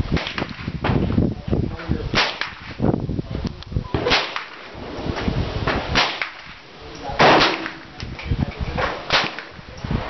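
Ruger 10/22 semi-automatic rifle firing .22 rounds: a string of sharp cracks about every two seconds, each with a short echo.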